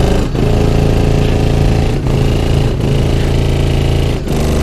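Bass-heavy music played very loud through a car audio system with a 32-inch subwoofer, in held low notes that change every second or two with short breaks between them.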